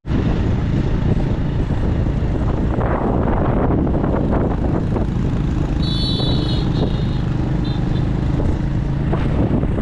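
Motorbike engine running steadily while riding, heard with a loud, continuous rush of noise. A brief high tone sounds about six seconds in.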